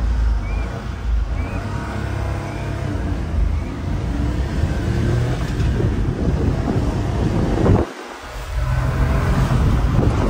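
Honda Acty kei truck engine running and road noise while driving, with wind on the microphone; the engine note dips briefly about eight seconds in.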